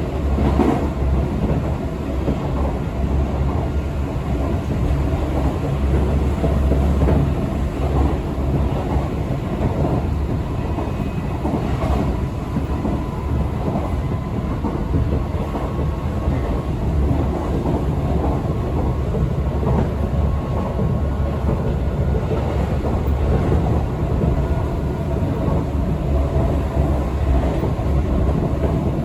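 Tobu Skytree Line commuter train running between stations, heard from inside the car: a steady rumble of wheels on rails, with a few sharper clicks over rail joints.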